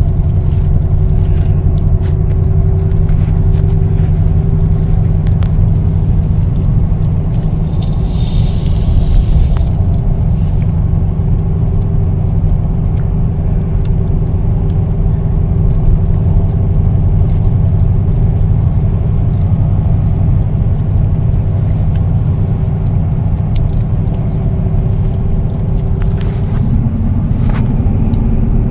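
Steady low road and engine rumble inside a moving car's cabin, with a faint steady hum above it.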